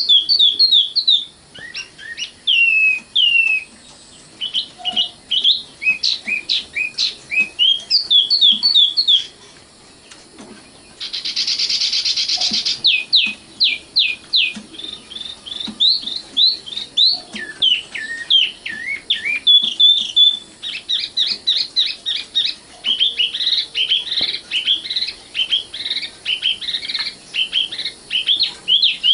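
Common nightingale singing: quick phrases of sharp, high repeated notes and slurred whistles, with a short pause and then a dense buzzy phrase about eleven seconds in.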